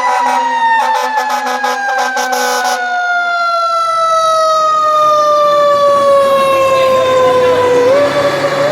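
Fire truck siren winding down in one long, slow falling wail that sinks about an octave over roughly eight seconds, then lifts slightly near the end. A fast pulsing rattle runs under it for the first few seconds.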